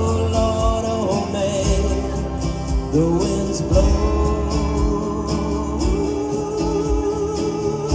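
Live country band playing a slow song: guitar and bass under a held, gliding melody line.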